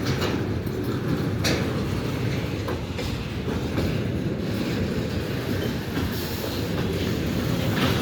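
Freight train rolling past: a steady low rumble of wheels on rail, with a few sharp clicks as wheels cross the rail joints.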